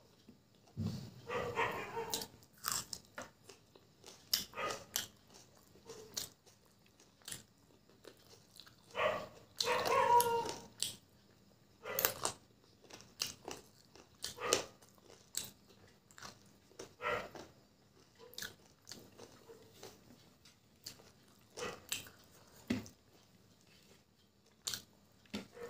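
Close-miked mouth sounds of a person eating chicken biryani by hand: chewing, lip smacks and wet clicks at irregular intervals. Twice, about a second in and again around nine to ten seconds in, there is a longer, louder sound with a pitch to it.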